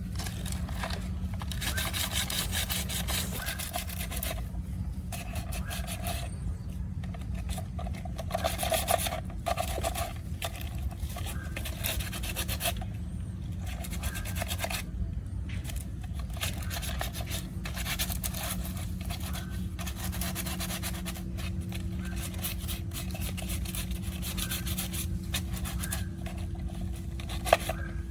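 Abrasive rasping and scraping strokes worked over a hard surface, in runs of a second or two broken by short pauses, over a steady low hum.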